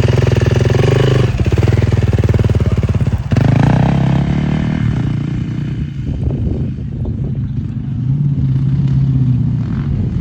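Motocross dirt bike engine revving hard at high rpm, with two short breaks in the revs about one and three seconds in. From about halfway it becomes quieter and more uneven, then picks up again near the end.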